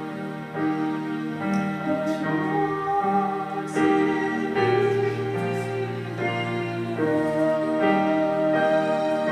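Slow keyboard music: sustained chords that change every second or two.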